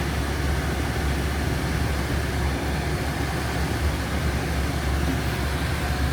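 Steady rush of a car's front and rear climate fans running at full speed, heard inside the cabin, with a constant low hum beneath.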